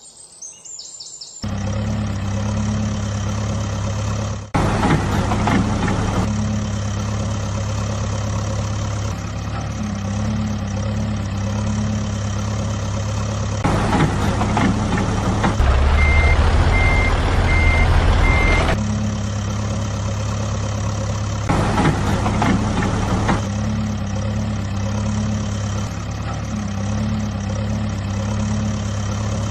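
Tractor engines running steadily. Just past halfway a heavier engine rumbles deeper and louder while a reversing alarm beeps about five times.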